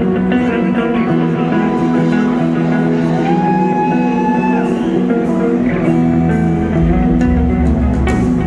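Rock band playing live, an electric guitar line over bass and drums, with one guitar note held for about a second and a half near the middle. The bass grows heavier in the second half.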